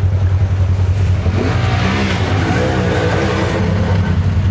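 Side-by-side UTV engines: a steady low engine drone, with an engine revving up and back down through the middle.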